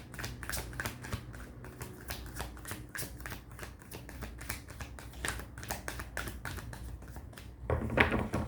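Tarot cards being shuffled by hand: a quick, irregular run of soft card flicks and taps, with a louder rustle near the end.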